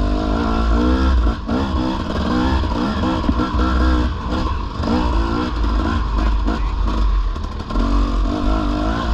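Dirt bike engine revving up and down over and over as the throttle is worked, with a heavy low rumble of wind on the microphone.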